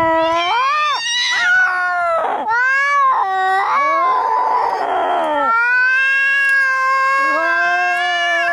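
Domestic cats caterwauling in a fight: long, wavering yowls rising and falling in pitch, broken about four seconds in by a harsh, noisy screech before the drawn-out yowling resumes.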